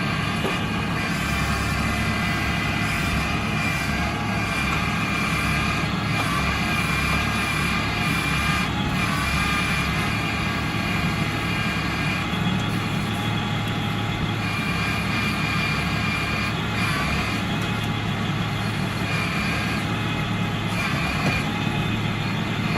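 Eicher 650 tractor's diesel engine running steadily, with a thin high whine held over it.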